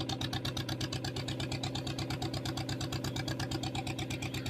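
Fishing boat's engine running steadily, with a rapid, even chugging pulse under a low hum.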